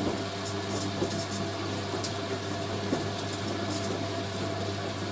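Hoover A3060 washing machine taking in water for its dilution rinse, a steady mains hum with water running in. The cold water is cooling the boil-wash water before the drain.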